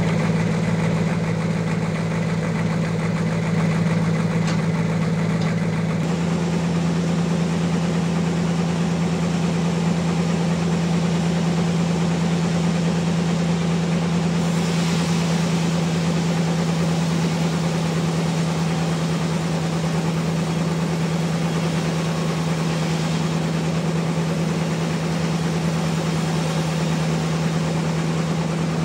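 Sawmill's engine running steadily at constant speed, with a strong even hum. The sound changes abruptly about six seconds in, and a brief rise in hiss comes about halfway through.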